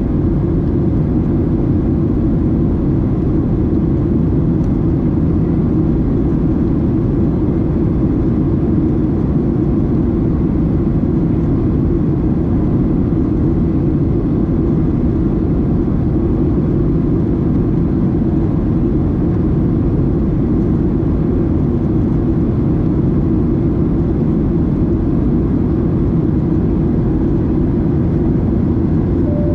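Steady, loud roar of a Boeing 737-700 passenger cabin in flight: engine and airflow noise, deep and unchanging, heard from a window seat.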